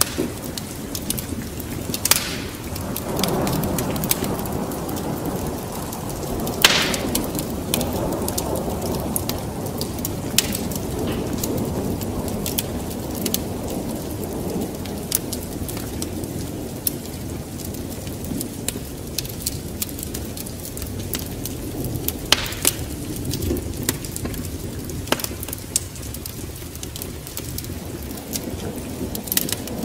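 Wood fire crackling, with scattered sharp pops, over steady rain and low rolling thunder that swells a few seconds in.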